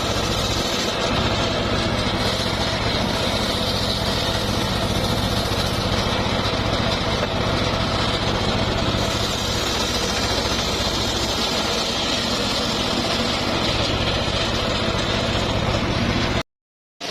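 Engine of a home-built circular sawmill running steadily at an even speed. The sound cuts out abruptly for about half a second near the end.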